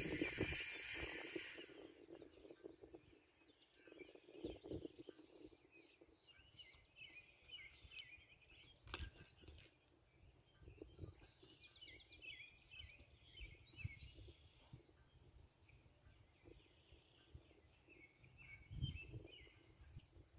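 Faint birdsong: short chirps, trills and downward-sliding whistles, with a few low thumps. A steady hiss cuts off about two seconds in.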